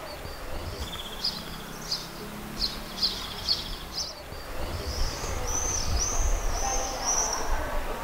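A small songbird singing: short high chirps in the first half, then a quick run of five or six repeated arched notes from about five seconds in, over a steady low outdoor rumble.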